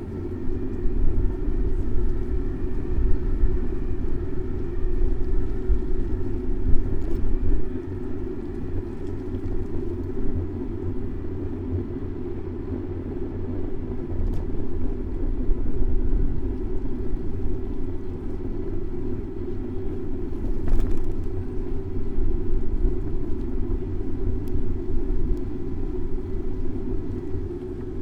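Wind rumbling over a bicycle-mounted action camera's microphone while riding, rising and falling in gusts, over city traffic noise.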